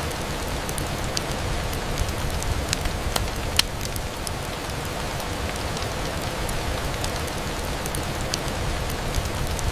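Steady rain falling on a window, an even hiss with a low rumble underneath, with scattered sharp ticks of single drops striking.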